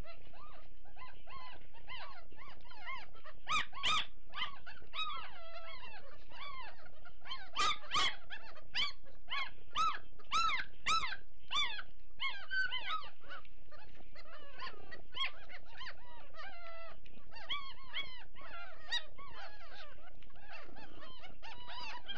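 A litter of Great Dane puppies squealing and whining over one another, with a run of louder, sharper yelps from about 7 to 12 seconds in. It is the hungry crying of pups waiting for their turn at feeding.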